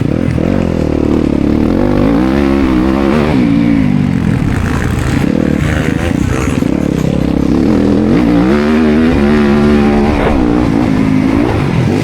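Motocross bike engine revving hard, its pitch climbing and dropping several times as the rider accelerates, shifts and backs off through the track's corners and jumps.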